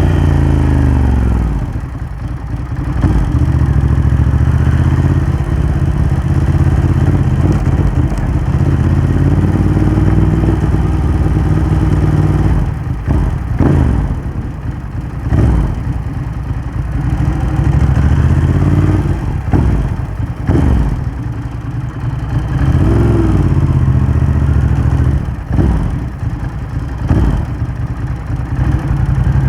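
Ducati Hypermotard 1100's air-cooled L-twin through a Termignoni exhaust, ridden through the gears. Its pitch falls at the start as it slows, then climbs again and again, with short breaks and dips in between, like gear changes and throttle-offs.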